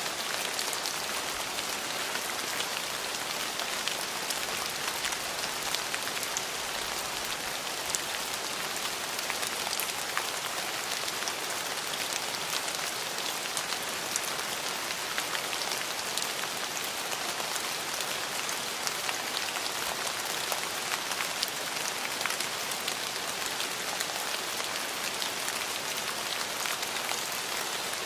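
Steady rain falling, with many individual drops ticking sharply against a surface in a constant hiss.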